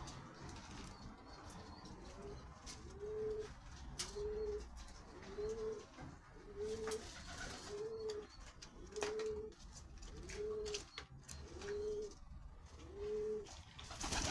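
A pigeon cooing: a regular run of about a dozen short, low coos, one roughly every second, each note rising and falling slightly, with a few faint clicks.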